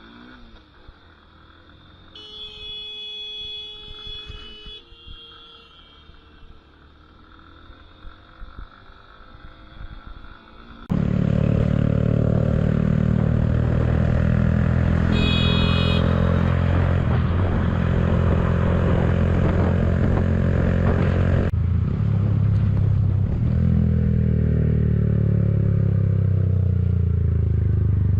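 A quiet stretch with a brief pitched tone about two seconds in, then, from about eleven seconds, a loud motorcycle engine running at speed, its pitch rising and falling. The pitch drops steadily near the end.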